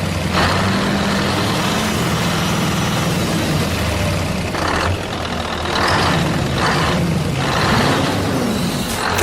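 An engine running steadily with a low hum, with several short bursts of hiss at irregular moments.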